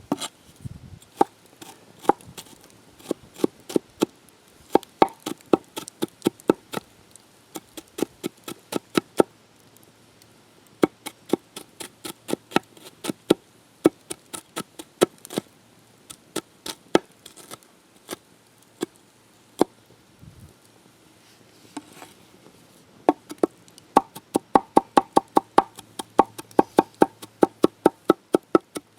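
A knife chopping food on a cutting board in quick runs of sharp knocks, about three to four a second, broken by a few short pauses.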